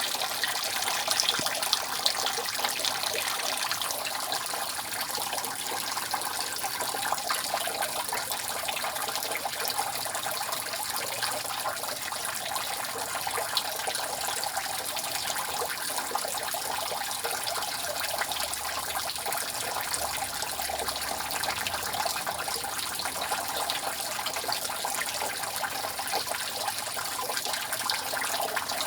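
Water dripping steadily off a roof, a dense, continuous patter of drips over an even rush of running water.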